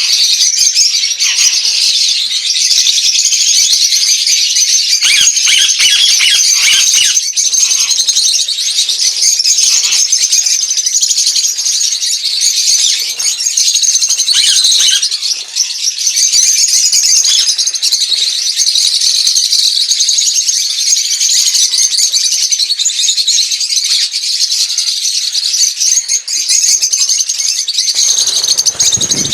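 A small flock of lovebirds (Agapornis) chattering nonstop in a dense, high-pitched, shrill mass of overlapping chirps and squeaks. A low thump comes near the end.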